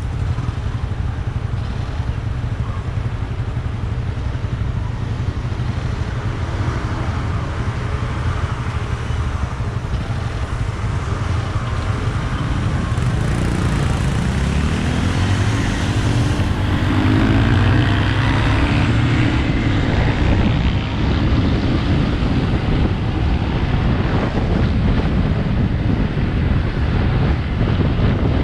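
Motorcycle riding through city traffic: heavy wind rumble on the microphone over the running engine, whose pitch rises and falls for several seconds around the middle as it speeds up and slows.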